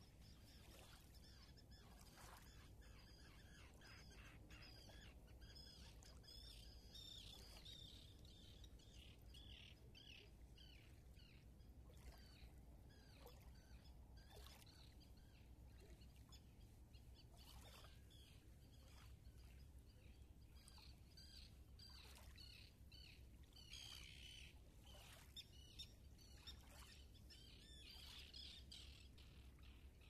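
Faint birdsong: many short chirps and twitters from several birds, scattered all through, over a low steady rumble.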